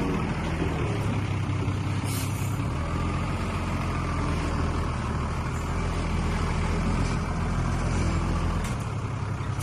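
Heavy diesel engine of construction machinery running steadily, its note changing near the end.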